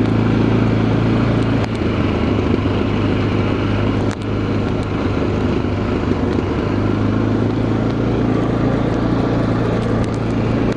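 Quad bike engine running steadily while riding, under a constant rush of noise. The engine note eases off about two seconds in and picks up again a little past halfway.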